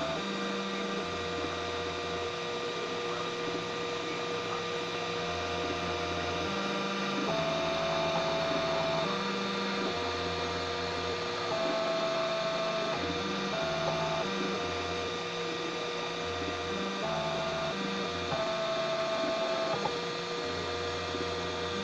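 3D printer printing: its stepper motors whine at a few different pitches that switch on and off with each move, every second or two, over a steady fan hum.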